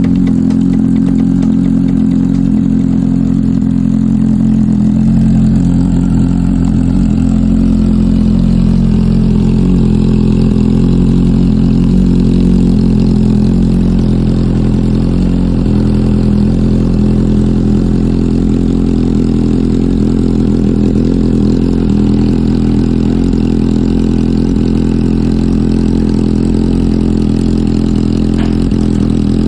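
Suzuki GSX-S750's inline-four engine idling steadily.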